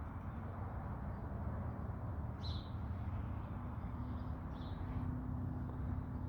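A bird chirps twice, briefly and high, about two and a half and four and a half seconds in, over a steady low outdoor rumble.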